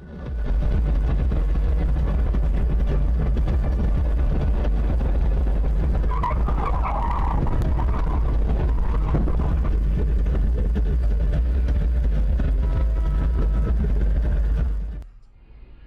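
Steady low rumble of a car on the move, with a brief higher-pitched sound in the middle, cutting off abruptly near the end.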